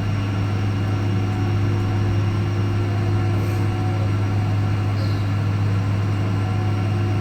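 Steady cabin drone inside a Boeing 777-200 taxiing after landing, with a strong, unchanging low hum and a few steady tones above it.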